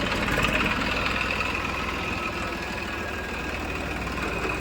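Diesel engine running steadily at idle with an even low chugging beat.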